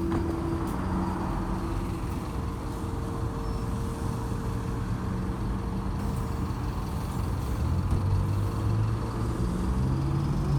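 MAZ-206 city bus under way: the engine running with a steady low rumble of engine and road noise, the engine tones shifting in pitch and growing a little louder near the end.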